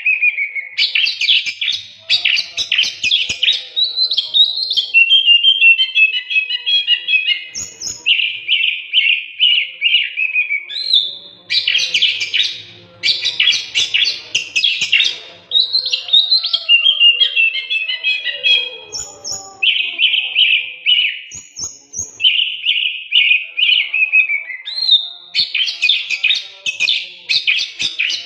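Oriental magpie-robin (kacer) in full song: a loud, near-continuous run of varied phrases, rapid chattering trills, steady whistled notes and short high squeaks, with only brief pauses.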